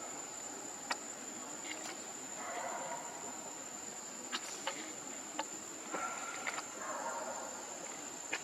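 Steady high-pitched insect drone, like crickets, running unbroken, with several sharp clicks scattered through it and two brief patches of soft noise.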